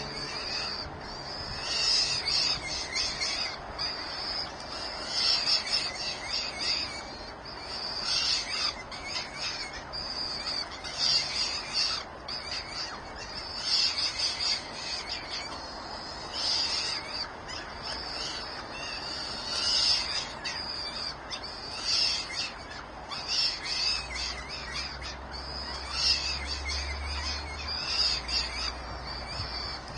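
Nestling birds calling over and over from the nest, thin high-pitched calls coming in short bursts every second or two.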